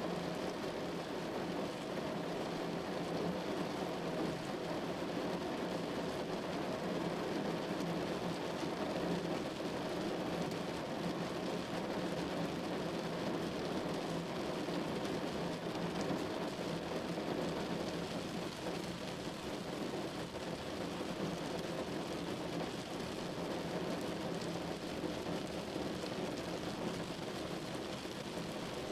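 Steady rain falling on a window, an even, unbroken hiss with no let-up.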